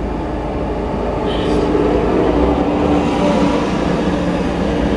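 Tractor diesel engine running as it drives past close by, its steady drone growing louder about a second and a half in.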